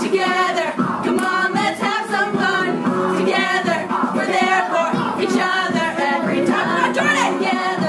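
A group of voices singing together, choir-like, with no clear instrument standing out.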